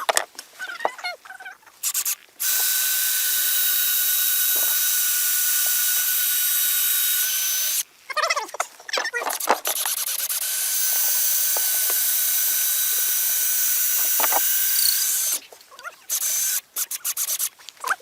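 Power drill boring a centre hole into the bottom end of a wooden porch post: two steady runs of the drill motor of about five seconds each, with short clicks and knocks of handling in between and near the end.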